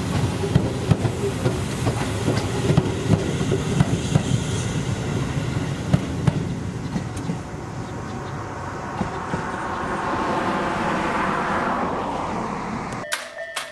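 A Tobu 6050 series electric train passing close by, its wheels clicking rapidly over rail joints over a low rumble. The clicking fades as the train pulls away, leaving a hiss that swells and then cuts off near the end.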